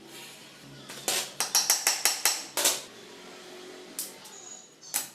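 Metal tools clinking and tapping on scooter engine parts during dismantling: a quick run of sharp clicks about a second in, then a few more near the end.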